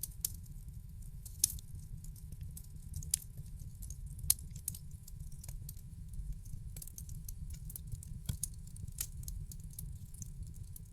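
Wood fire crackling in a fireplace: a steady low rumble of the flames under irregular sharp pops and snaps, the loudest pop about four seconds in.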